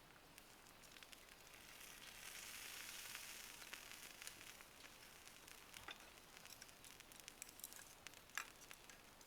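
Faint sizzling and crackling of a wood fire: a hiss swells and fades over a couple of seconds, then scattered crackles and pops follow, one louder pop near the end.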